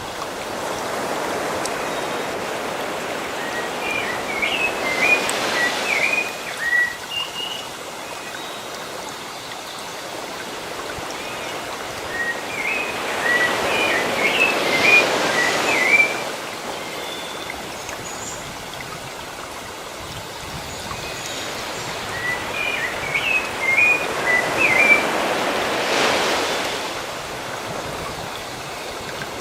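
Sea waves washing in slow surges, swelling and fading about every eleven seconds. Small birds chirp in short twittering bursts three times, each as a wave swells.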